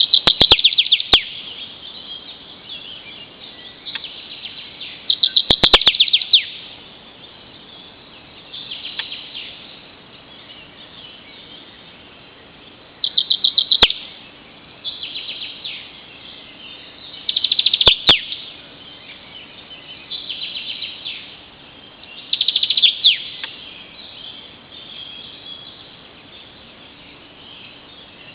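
Songbirds singing in a spring park: short phrases of rapid, high notes, each about a second long, repeated every few seconds. The last few seconds have no phrases, leaving only faint background.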